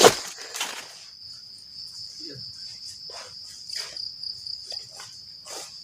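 Crickets chirring in a steady high trill, with scattered footsteps on the forest floor that are loudest at the very start.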